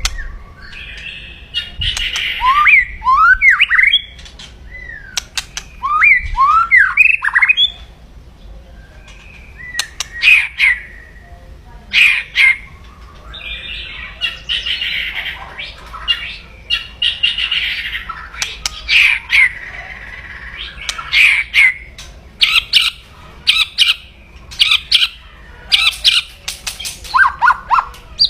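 A white-rumped shama (murai batu) giving aggressive 'kretekan' calls: harsh, grating rattles and sharp clicks broken up by quick rising whistled notes.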